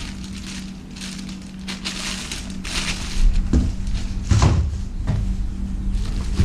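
Packaging being handled: irregular crinkling and crackling rustles, several in a row, over a steady low hum.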